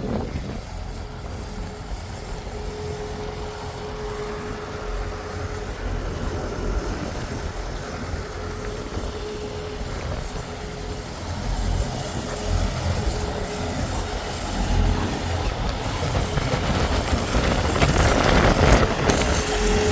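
A heavy engine running with a steady low rumble and a mid-pitched hum that comes and goes, growing louder near the end.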